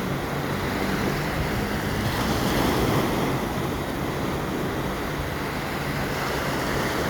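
Sea surf washing onto a beach in a steady rush of waves.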